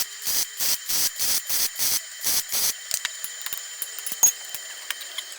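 Rhythmic scraping strokes of a hand tool working a workpiece, about four a second, that stop about two and a half seconds in, followed by a few light clicks.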